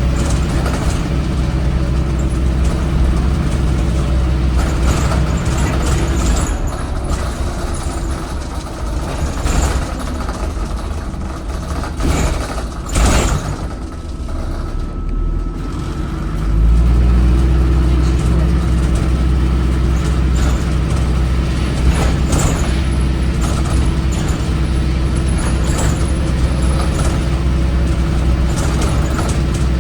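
Cummins ISBe 4.5-litre diesel of an ADL Enviro 400 hybrid bus running hard under heavy throttle. It drops back for a stretch, with a short burst of noise about halfway through, then comes back loud at about two-thirds of the way in, its note rising and holding.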